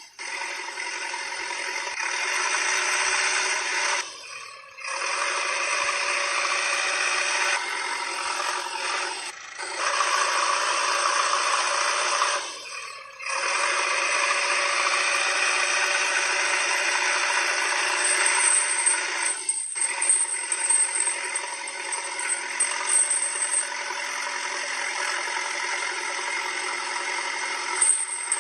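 Toy vehicles rattling and scraping continuously, broken by several abrupt short cuts.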